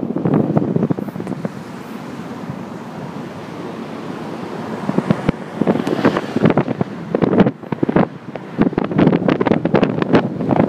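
Wind buffeting and crackling on a phone microphone over the rumble of a moving vehicle. The buffeting eases for a few seconds after the start, then comes back in choppy gusts from about halfway through.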